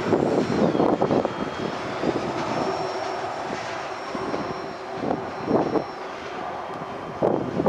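Freight cars rolling across a bridge: wheels clattering over the rails, with a thin high wheel squeal, fading as the last covered hopper passes.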